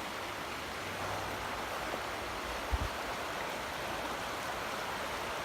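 Steady rushing of the Neversink River running high after heavy rain, with a brief low thump a little under three seconds in.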